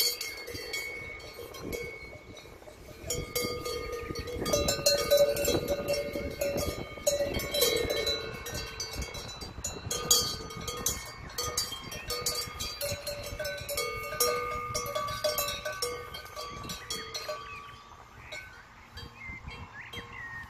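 Cowbells on collars of grazing Brown Swiss cows clanking and ringing irregularly as the cows move, busiest and loudest in the middle and dying down near the end.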